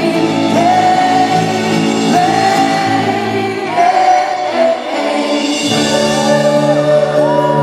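Live pop ballad performance: voices singing long held notes, gliding between pitches, over steady band accompaniment.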